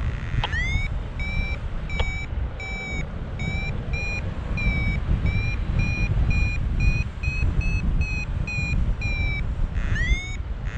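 Paragliding variometer beeping in a quick steady train, about two to three beeps a second, signalling that the glider is climbing in a thermal. A rising chirp sounds near the start and again near the end, over a steady rush of wind on the microphone.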